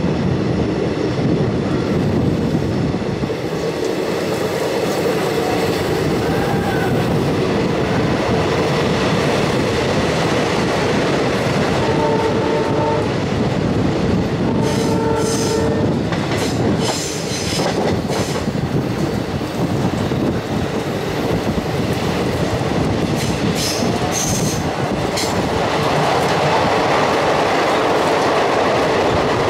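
Passenger train running down the ghat, heard from an open coach doorway: a steady rumble and clatter of wheels on rail, with short high squeals in the middle and two brief pitched tones. Near the end the sound swells and fills out as the train enters a tunnel.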